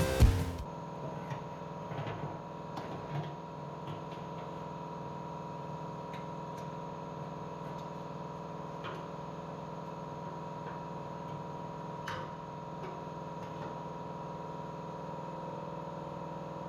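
Background music cuts off just after the start, leaving a steady hum from a small siphon pump drawing gasoline out of a truck gas tank, with scattered faint clicks.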